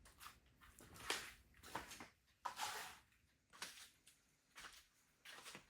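Faint handling noises: a scatter of short rustles and scrapes, the longest about two and a half seconds in, from working with an EV charging cable and its connector.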